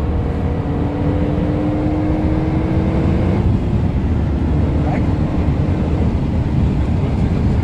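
Renault Mégane RS 265's 2.0-litre turbocharged four-cylinder engine running at speed, heard from inside the cabin under loud, steady road and wind noise. The engine note climbs slowly for about three seconds, then drops a little and fades into the road noise.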